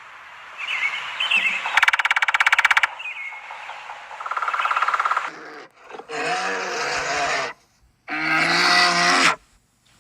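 Animal calls: a rapid buzzing rattle about two seconds in and a shorter buzzy call, then two long, pitched, nasal-sounding calls of about a second and a half each.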